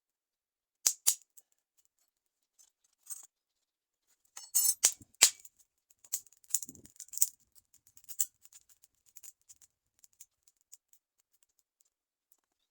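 Scattered sharp, dry clicks and crackles: two about a second in, a dense burst about four to five seconds in, then sparser small ticks that thin out.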